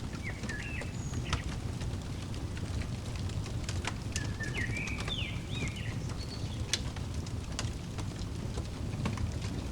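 Wood fire crackling with scattered sharp pops over a steady low rumble. A small bird chirps a short phrase near the start and a quicker run of chirps about four to six seconds in.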